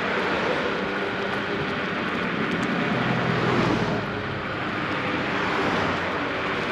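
Dual-motor electric scooter being ridden along a paved trail: a steady rush of wind and tyre noise, swelling a little about three and a half seconds in.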